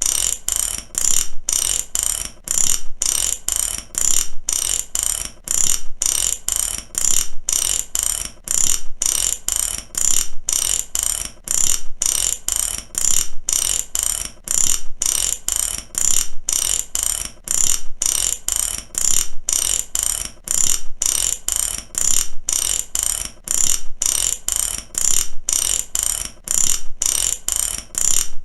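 Ratchet wrench clicking as its pawl rides over the gear teeth, in a steady, even run of sharp clicks, about two a second.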